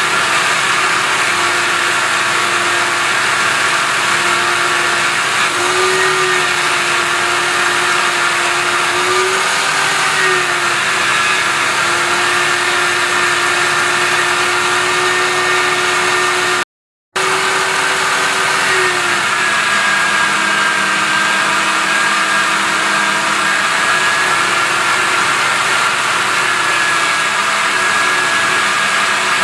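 Electric grinder running steadily with a rotating polishing brush on aluminium, a constant motor hum over a dense whirr that wavers slightly in pitch a few times. The sound cuts out for an instant a little past the middle.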